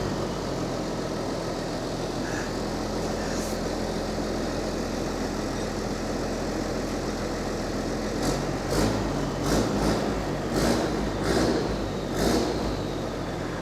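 Blue New Holland tractor's diesel engine running steadily just after being started. From about eight seconds in, the engine note turns uneven and a series of clunks comes through.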